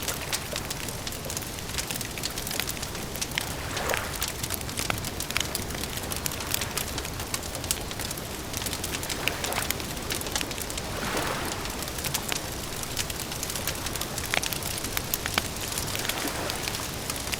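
Wood campfire crackling, with many sharp irregular pops and snaps over a steady hiss.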